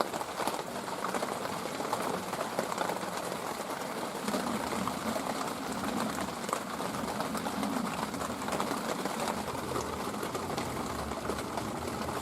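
Steady background hiss with a dove cooing faintly a few times in the middle.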